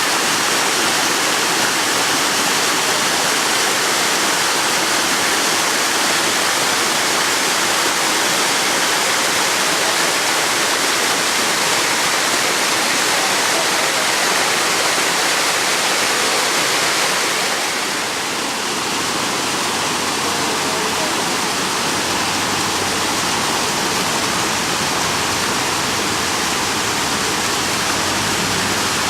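Waterfall: a steady rush of falling water that drops a little in level and brightness about seventeen seconds in.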